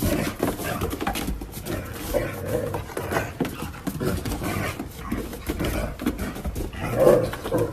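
A dog vocalizing in short sounds, with scattered knocks.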